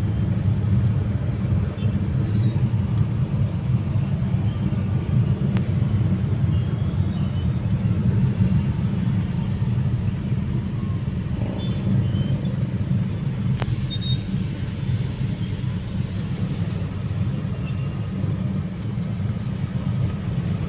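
Steady low rumble of a motor vehicle running in traffic.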